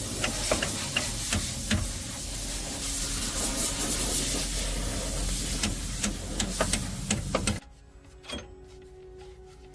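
A steady, rough hissing noise with scattered sharp ticks, cutting off suddenly about seven and a half seconds in.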